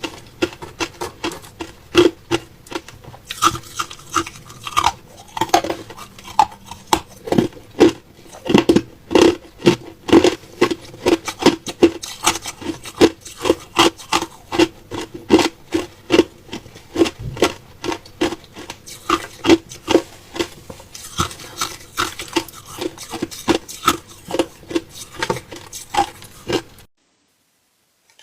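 Ice being bitten and chewed close to the microphone: a fast, continuous run of sharp cracks and crunches that cuts off suddenly about a second before the end.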